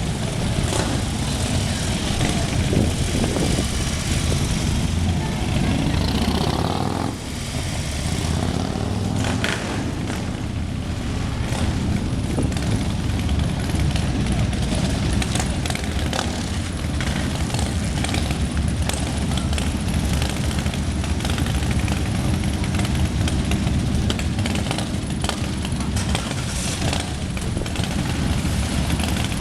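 Many motorcycle engines running as a large group of bikes rides past, a continuous loud noise with a brief drop about seven seconds in.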